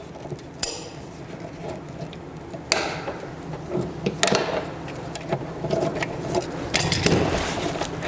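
Hand tools and plastic parts being handled while working a wiring connector loose: scattered clicks, knocks and rustling, with sharper clicks about half a second, nearly three seconds and about four seconds in.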